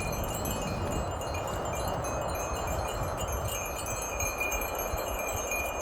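Soft, steady chiming tones over an even rushing hiss, like a wind-chime sound bed.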